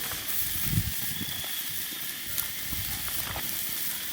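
Burgers sizzling on a metal grate over a campfire: a steady hiss with a few faint crackles. There is a low thump less than a second in.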